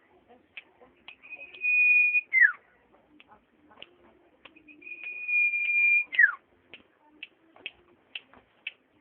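Common iora (cipoh) singing: two long, level whistles, each ending in a quick downward slur, with short sharp chip notes between them.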